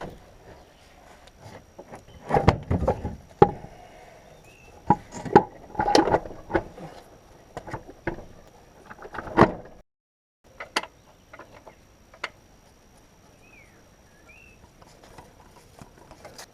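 Irregular clanks, knocks and scrapes of hand tools and metal car parts being handled, in clusters for the first ten seconds and then only a few faint clicks.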